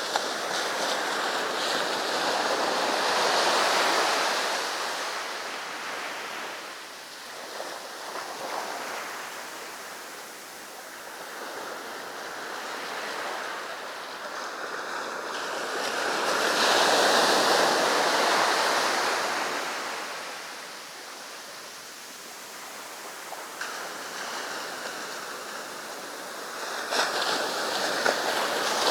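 Sea waves breaking on a beach and washing up the sand, the surf swelling and fading in slow surges, loudest about three seconds in, again around seventeen seconds, and rising once more near the end.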